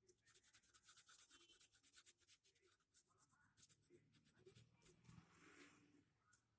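Faint scratchy strokes of a kolam being drawn by hand, many short quick strokes in a row, then a longer, softer rub near the end.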